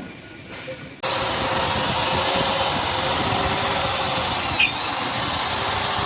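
An electric power tool switches on about a second in and runs steadily, with a high whine that dips in pitch about two-thirds of the way through and then climbs again, as if the tool is being loaded against the work.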